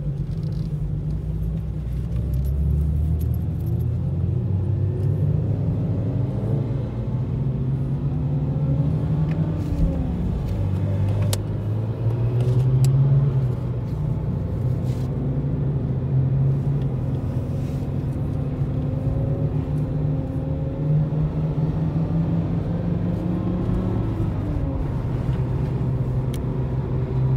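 Lexus IS200 TTE Kompressor's supercharged straight-six heard from inside the cabin as the car drives on track. The engine note rises and falls as it accelerates and changes gear, loudest about halfway through.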